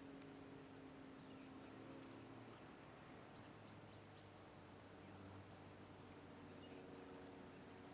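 Near silence: faint outdoor ambience with a low steady hum and a few faint bird chirps about three to four seconds in.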